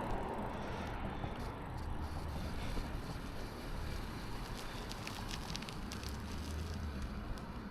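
Steady wind rumble on the microphone and road noise during a bicycle ride, with a few faint clicks in the second half.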